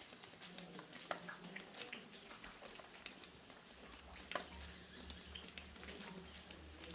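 Faint fine rain with scattered drips falling from a roof, many small ticks over a light hiss, with two sharper drips about a second in and near the middle.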